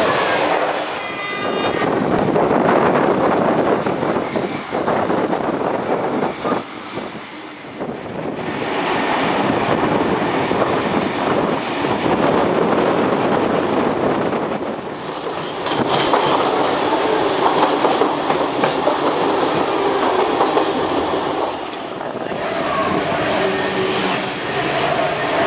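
Passenger train carriage running at speed, heard from inside the compartment: a steady rumble and rush of wheels on the track with clickety-clack from the rail joints. A short high-pitched tone sounds about a second in.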